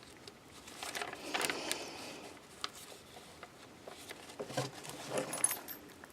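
Paper pages of a handmade junk journal being turned and handled, rustling in two spells, about a second in and again near five seconds, with small clicks and taps between.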